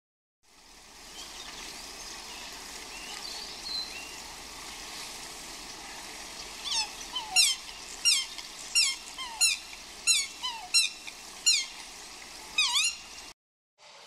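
An animal giving a series of about nine short squeaky calls, each falling in pitch, roughly one every 0.7 seconds, over steady outdoor background noise.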